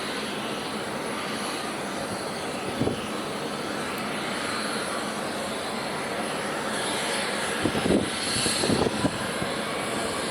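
Jet airliner engines running, a steady rushing noise with a faint rising whine near the end. Short thumps come about three seconds in and again around eight to nine seconds.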